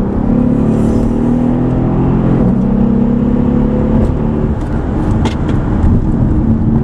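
Mercedes SL63 AMG's twin-turbo V8 pulling hard under acceleration, heard from inside the cabin. Its note shifts about two and a half seconds in and gives way to road noise about four seconds in.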